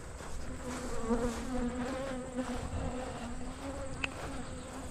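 Honey bees buzzing close around the microphone, a steady drone that wavers slightly in pitch: agitated guard bees from a disturbed hive following the beekeeper. A brief click about four seconds in.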